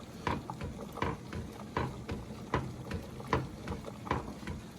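A spoon stirring the sauce in a pan, knocking against the pan in an even rhythm, about once every three-quarters of a second.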